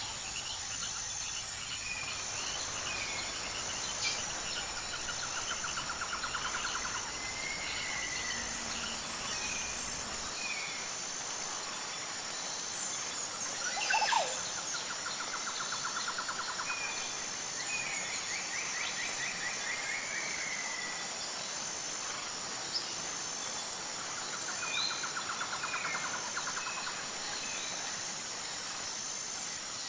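Forest ambience of insects and birds. A steady, high insect drone pulses evenly throughout, scattered short bird calls sound over it, a buzzy trill comes back three times about nine to ten seconds apart, and one louder call rises and falls about halfway through.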